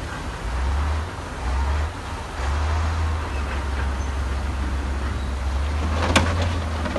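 Heavy diesel construction machinery running with a deep low rumble that swells and eases, and one sharp, loud bang about six seconds in, followed by a few lighter knocks.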